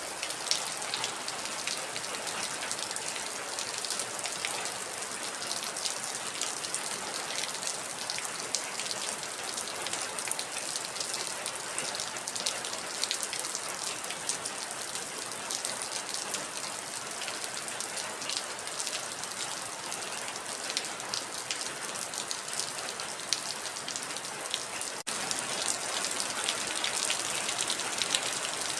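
Heavy rain falling: a dense, steady hiss full of sharp individual drop ticks. About 25 seconds in it drops out for a moment and comes back slightly louder.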